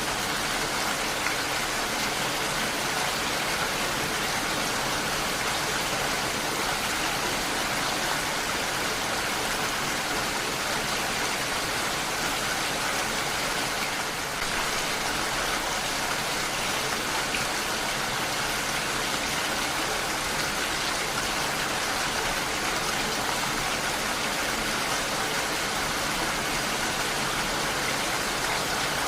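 Heavy rain falling steadily, a dense, even hiss of drops with no distinct single drips or thunder.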